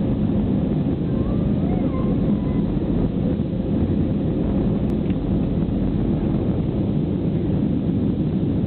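Airbus A319 cabin noise heard from a passenger seat: a steady, loud, low rumble of the jet engines and airframe.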